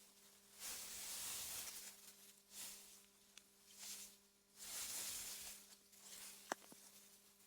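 Faint AI-generated wind through meadow grass, rising and falling in soft gusts over a steady faint hum, with a single sharp click about six and a half seconds in.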